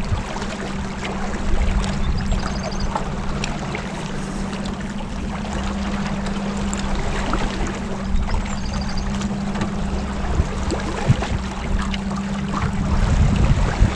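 Boat engine running steadily underway, a constant low hum with water rushing along the hull.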